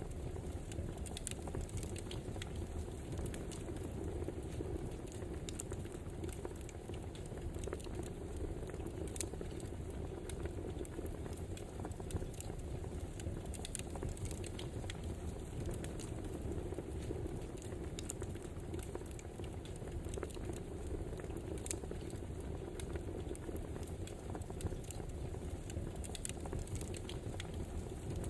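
Wood fire crackling: a steady low rush of flames with frequent, irregular sharp pops and snaps.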